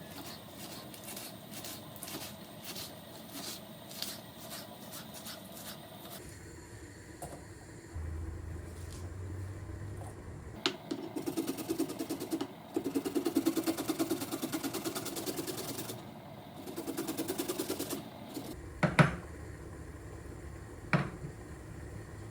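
Kitchen work sounds: light clicks and taps, then a small electric motor runs in two bursts with a fast pulsing buzz, followed by two sharp knocks.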